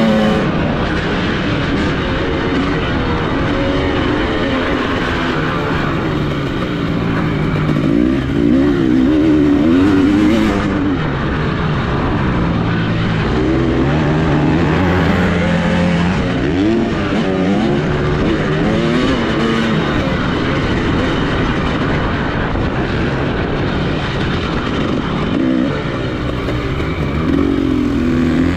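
Dirt bike engine being ridden hard, its pitch rising and falling again and again as the throttle opens and closes.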